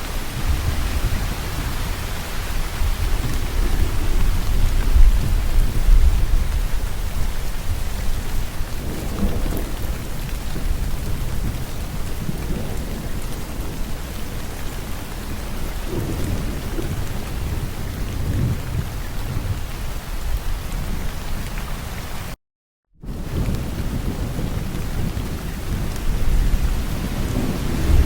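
Steady heavy rain with low rolling rumbles of thunder, the rumble strongest in the first several seconds. About three quarters of the way through the sound cuts out to silence for about half a second, then resumes.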